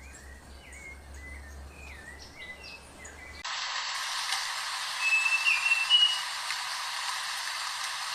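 A bird calling with short, repeated, gliding chirps. About three and a half seconds in, it cuts abruptly to a loud, steady hiss, with a few brief whistled bird notes a couple of seconds later.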